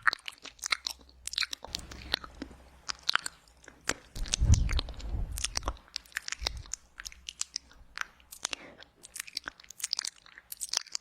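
Wet ASMR mouth sounds close to the microphone: many quick lip smacks and tongue clicks, with a louder, lower sucking stretch about halfway through.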